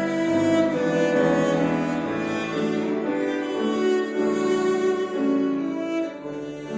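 Cello playing a slow, singing melody in long bowed notes, with piano accompaniment underneath.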